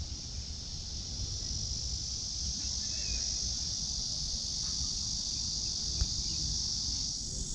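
Steady, high-pitched chorus of insects droning in the trees, with a low rumble underneath and a single sharp tick about six seconds in.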